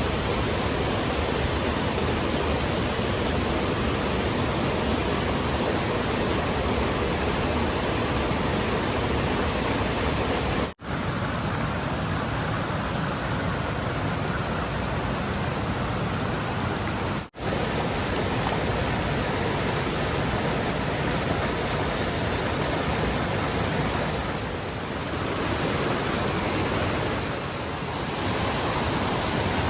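Stream water rushing steadily over rocks, a constant even roar that breaks off for an instant twice.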